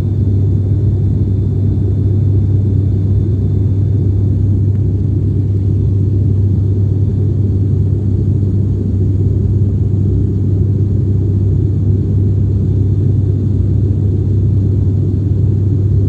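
Jet airliner cabin noise heard from inside the cabin: a steady, loud low drone that does not change.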